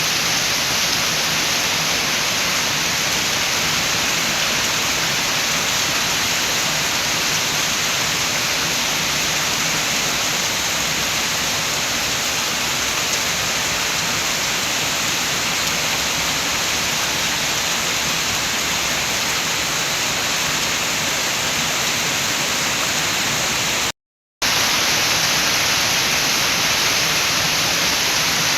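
Steady rain falling, an even hiss that is interrupted by a split-second dropout to silence a few seconds before the end.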